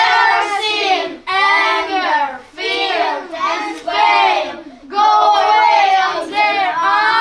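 Children singing a song in short phrases, with brief breaks between the lines.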